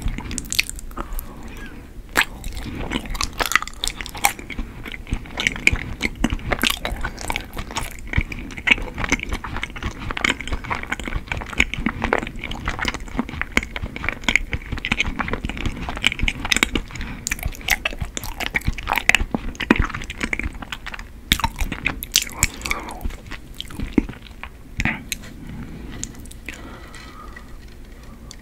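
A person chewing a chewy white Korean rice cake (tteok): a steady run of sticky smacking clicks from the mouth, thinning out near the end.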